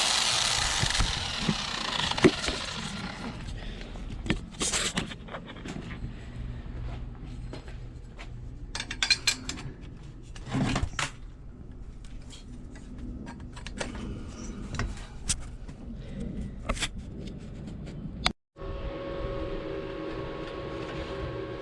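A hissing noise fades out over the first few seconds. Scattered clicks, knocks and scrapes follow, the sound of tools or parts being handled. After a brief dropout near the end, a steady hum sets in.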